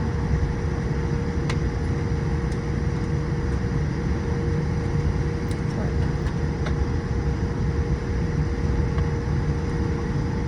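Steady cabin noise inside a Boeing 787-8 on the ground after landing: a low rumble with a steady hum and a few faint clicks.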